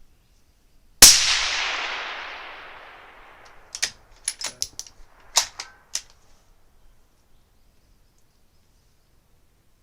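A single shot from a suppressed Bergara Premier HMR Pro 6.5 Creedmoor rifle about a second in, its report echoing and fading away over about two seconds. A few seconds later comes a quick series of sharp clicks as the rifle's bolt is worked to chamber the next round.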